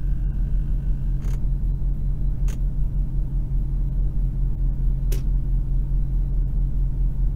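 Jeep engine idling steadily at about 640 rpm, heard as a low, even hum from inside the cab, with the AC and electric radiator fan switched on and loading the alternator. Three short sharp clicks come about a second, two and a half and five seconds in.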